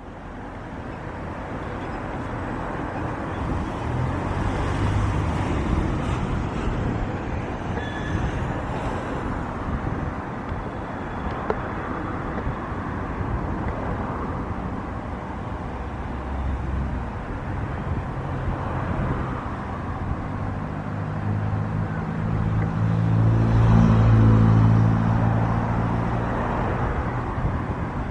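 Jet airliner engines rumbling at a distance. The rumble swells to its loudest about three-quarters of the way through, then eases off, over a steady wash of wind.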